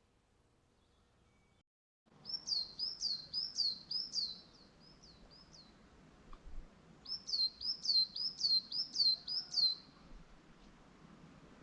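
A songbird singing two phrases of high, repeated down-slurred notes, about three a second, each phrase lasting a couple of seconds with a pause between, over faint outdoor background noise.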